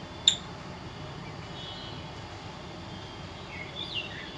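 Parrot giving one sharp, short chirp, then a few faint, soft chirps and twitters near the middle and towards the end, over a steady background hum.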